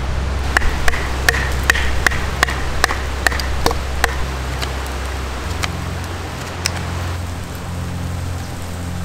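A knife chopping on a cutting board, about ten even strokes roughly two and a half a second, thinning out to a few single knocks after about four seconds, over a steady hiss.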